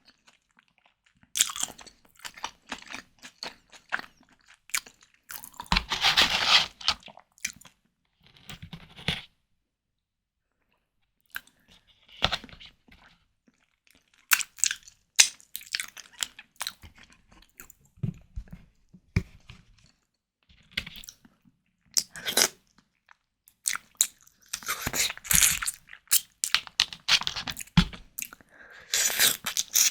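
Close-miked eating of white tiger prawns: irregular bites and chewing with sharp mouth clicks, coming in bursts, with a pause of about two seconds about a third of the way in.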